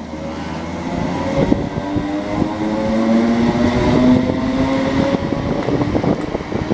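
Electric train passing through the station: a whine of several tones from the traction motors that shifts slowly in pitch, over wheel-on-rail rumble with scattered clicks, swelling to its loudest about four seconds in and then easing.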